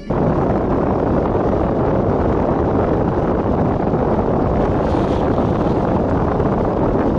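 Blizzard wind blowing hard across the microphone: a loud, steady rush of wind noise.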